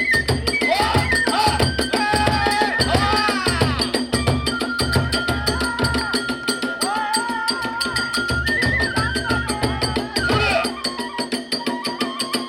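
Kagura accompaniment: a large taiko drum beating in a fast, driving rhythm, with small hand cymbals clashing and a bamboo flute playing a high melody that holds one long note midway. The drum drops out near the end.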